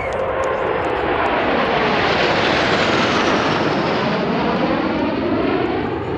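An aircraft flying past, its noise swelling to a peak about two to three seconds in and then fading.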